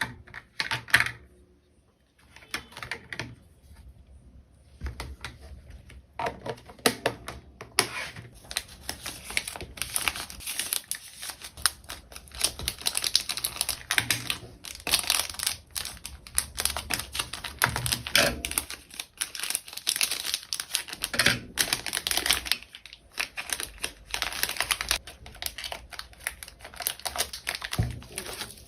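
Hands packing an order: rapid, uneven clicking and crinkling of plastic packaging and small items being handled. It is sparse at first, with a couple of sharp clicks, and becomes a dense, almost continuous clatter after several seconds.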